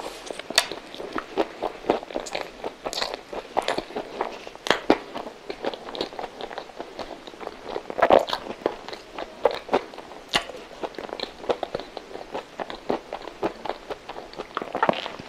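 Close-miked biting and chewing of a soft coconut-coated milk custard roll topped with chocolate balls: a dense run of sharp, crunchy clicks and wet mouth sounds, with a louder bite about eight seconds in.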